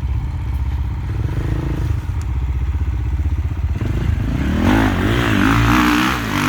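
Enduro motorcycle engine running at low revs, then from about four seconds in revved up and down several times, with a loud hiss alongside the revving.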